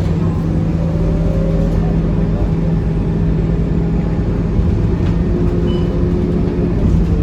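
Scania K230UB city bus's five-cylinder diesel engine running while the bus is under way, heard from inside the passenger cabin: a steady low drone with a strong hum and fainter whining tones that shift pitch a couple of times.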